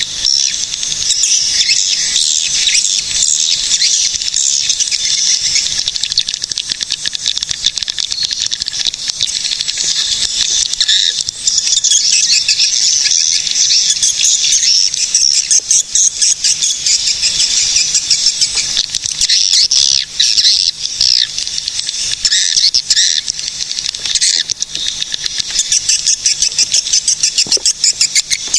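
Swiftlets (walet) twittering continuously in a dense, high chatter of rapid clicking chirps.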